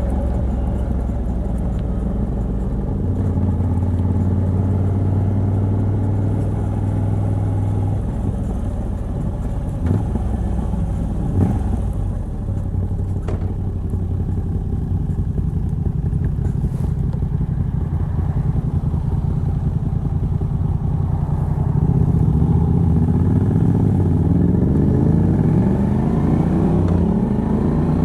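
Moto Guzzi V85TT's 853 cc air-cooled transverse V-twin, fitted with a Mistral decat pipe on the stock exhaust, running under way at a relaxed pace. Its pitch rises as the bike accelerates in the last several seconds.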